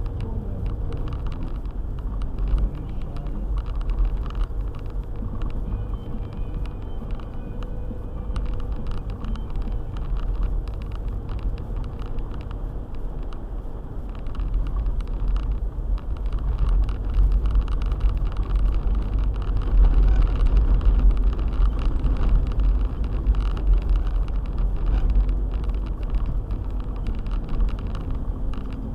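A car driving, its engine and tyres making a steady low rumble that grows louder for several seconds past the middle.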